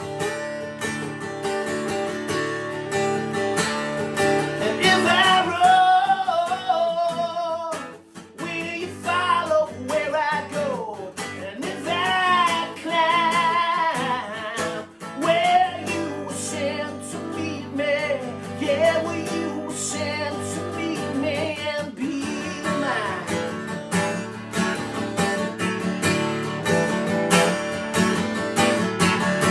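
Music: a strummed guitar with a wordless vocal melody over it from about four seconds in to about sixteen seconds; after that the guitar carries on alone.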